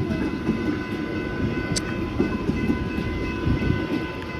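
Alstom X'Trapolis electric suburban train passing a level crossing: a fluctuating rumble with several steady tones above it, with wind buffeting the microphone.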